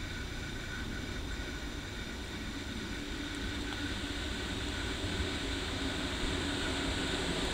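An approaching train: a distant, steady rumble with a faint drone of steady tones that grows gradually louder.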